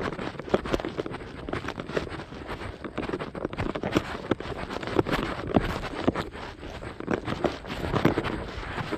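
A runner's footsteps, an uneven series of thuds about two to three a second.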